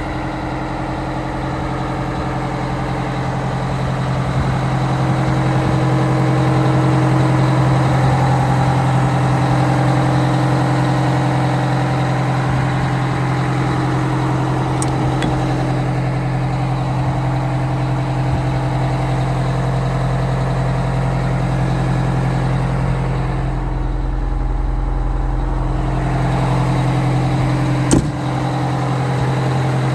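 Oshkosh M1075 PLS truck's 8V92 Detroit two-stroke V8 turbo diesel running steadily, a little louder over the first few seconds, with one sharp click near the end.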